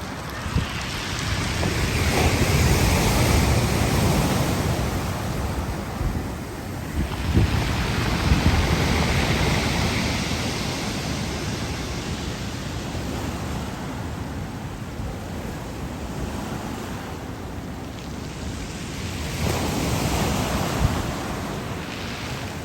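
Black Sea surf breaking on the shore: waves surge and wash back three times, loudest about two seconds in, again around eight seconds, and once more near the end.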